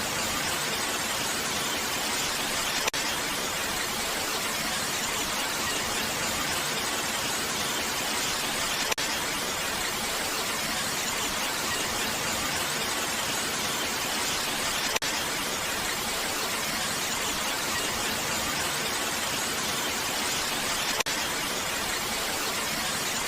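Steady rain, an even hiss with no rises or lulls. A brief click cuts through about every six seconds, four times in all.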